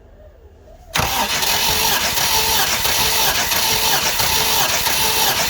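UMZ-4216 inline-four petrol engine of a GAZelle van being turned over by its starter motor for a compression test, starting abruptly about a second in and cranking steadily without firing.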